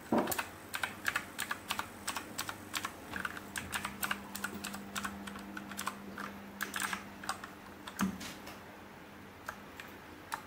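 Typing on an RK61 60% mechanical keyboard with clicky Blue switches: a quick, irregular run of key clicks that thins out to a few single presses near the end.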